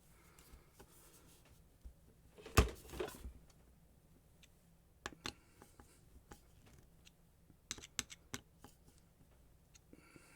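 Parts of an opened angle grinder being handled on a bench: one sharp knock with a brief rattle about two and a half seconds in, then scattered small clicks and taps.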